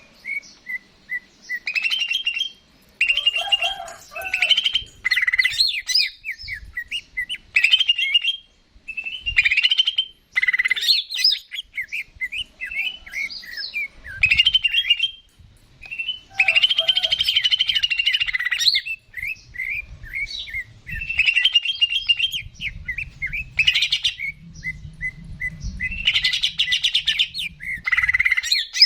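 Green leafbird (cucak ijo) in full song: rapid phrases of sharp chirps and fast trills, one after another with short pauses between them.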